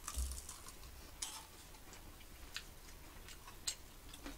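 A crisp fried churro being bitten and chewed close to the microphone: faint, irregular crunchy clicks, several across a few seconds.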